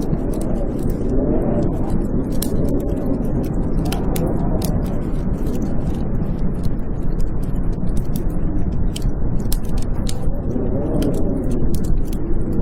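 Blizzard wind howling in slow swells that rise and fall in pitch, with a wood fire crackling in many sharp pops and snaps over it.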